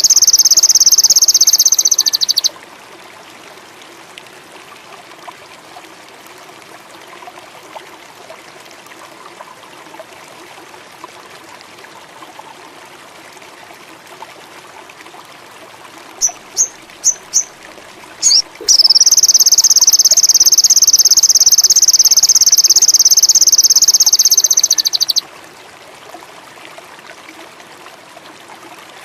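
Sogon indigo song: a loud, high, rapid buzzing trill for about two and a half seconds, then a soft running-water background. Later come four short sharp chirps and one more, then another buzzing trill of about six seconds that cuts off suddenly.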